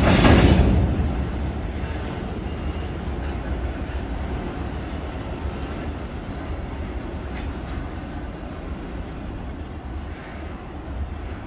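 Container wagons of a long freight train rolling past on steel rails, loudest in the first second, then a steady rumble that slowly fades as the end of the train goes by.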